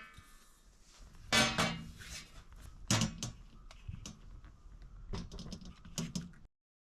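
Several clattering knocks and clinks of things being handled, a second or two apart, with the sound cutting off abruptly near the end.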